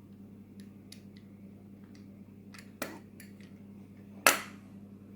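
Light clicks and taps of small hard objects being handled, with a sharper click about three seconds in and a louder short scraping rustle near the end, over a steady low hum.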